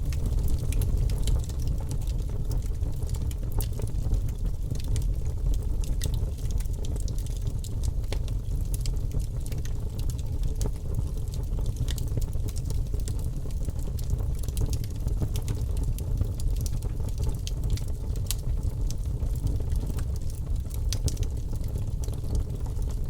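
Wood logs burning in a fireplace, crackling with frequent small pops and snaps over a steady low rumble of the fire.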